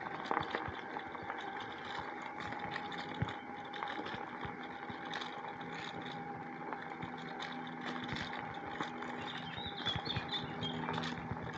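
Bicycle riding along a woodland track: tyre noise on the path with frequent small clicks and rattles from the bike, over a steady hum.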